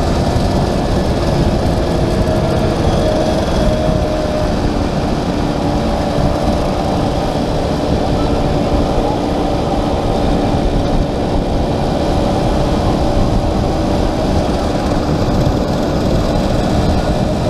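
Small classic motorcycle engine running at a steady speed under heavy wind rumble on a helmet-mounted microphone.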